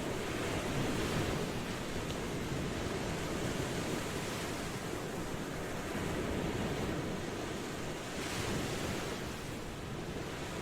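Ocean waves washing on a shore: a continuous rushing wash that swells gently every few seconds.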